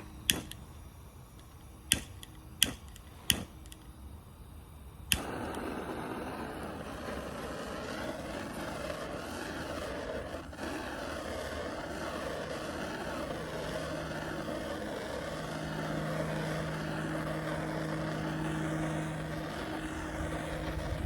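A handheld gas torch: several sharp clicks, then the torch lights with a last click about five seconds in and runs with a steady rushing noise.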